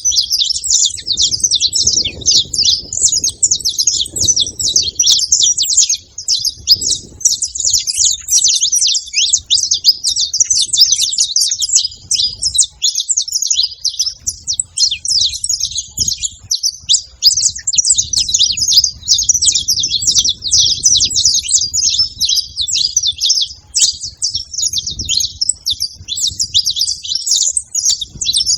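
A group of saffron finches chirping and singing together: a dense, unbroken chatter of quick, high notes overlapping one another.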